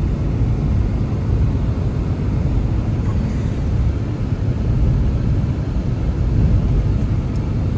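Blizzard wind blowing steadily, a low rumble with no pauses.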